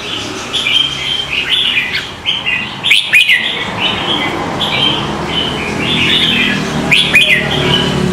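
A pet bird chirping rapidly and continuously in short, high chirps, with two sharper calls about three seconds in and near the end.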